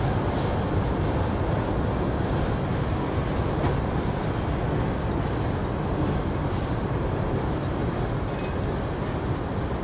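Freight train of tank cars rolling steadily across a steel trestle, a continuous rumble of wheels on rail.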